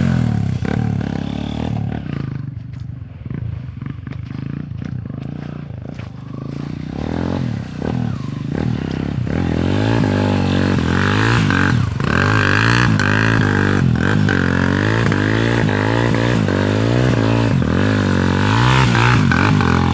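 Honda CRF dirt bike engine revving up and down again and again. It drops quieter for a few seconds near the start, then comes back louder.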